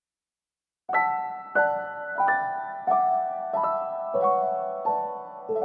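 Background piano music: after about a second of silence, gentle notes are struck one after another, about every two-thirds of a second, each ringing and fading, the melody stepping slowly downward.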